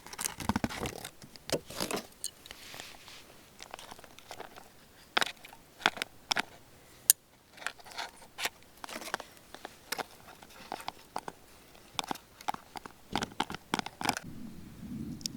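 Camping gear being handled up close: a run of scattered clicks, scrapes and rustles, with a low steady rumble starting near the end.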